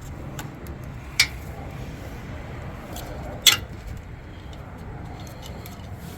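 Two sharp clicks, a little over two seconds apart, the second the louder, with a few faint ticks over a low steady rumble.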